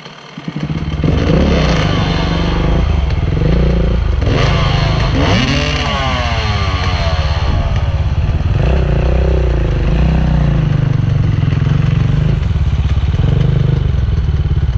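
Enduro dirt bike engine opened up from idle about half a second in, then run hard, its pitch rising and falling repeatedly with the throttle while riding, with some clatter and scraping.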